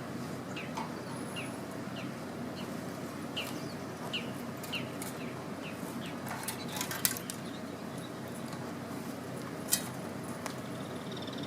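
Outdoor campfire ambience: a steady hiss with two sharp pops from the burning wood, the loudest about seven and ten seconds in. Over it a bird repeats short falling chirps about twice a second through the first half, and a fast pulsing trill from a frog or insect starts at the very end.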